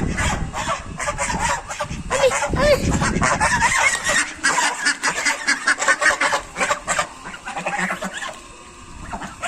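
Ducks quacking, many rapid calls overlapping, thinning out near the end.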